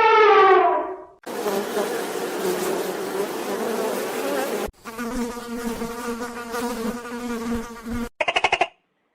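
A flying insect's wings buzzing in two stretches, the second with a steadier hum. Before the buzzing, a loud call falls away in pitch; near the end comes a short burst of rapid clicking pulses.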